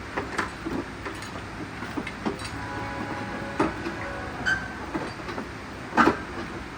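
Irregular metallic clicks and knocks of hand tools against engine parts during engine assembly, two or three a second, with one louder clank near the end and a brief faint ringing partway through.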